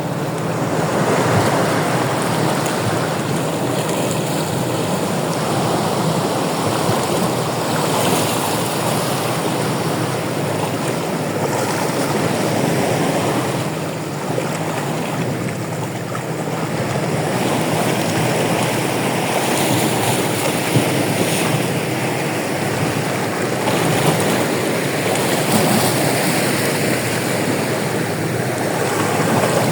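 Ocean surf washing onto a shore: a steady rush of breaking waves that swells and eases every few seconds.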